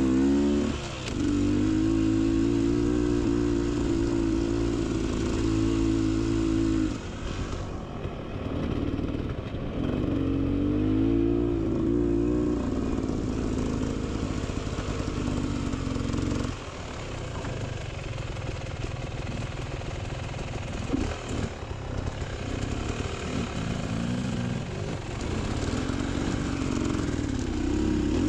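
Beta Xtrainer two-stroke dirt bike engine riding on trail, revving up and down with the throttle. It eases off for a stretch about seven seconds in and again around the middle, then picks back up.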